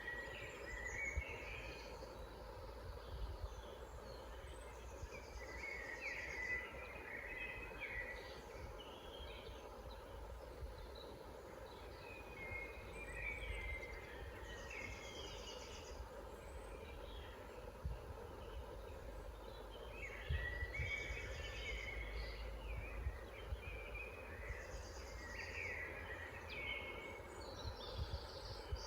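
Several woodland songbirds singing in short, repeated phrases, with pauses between, over a steady low background rumble.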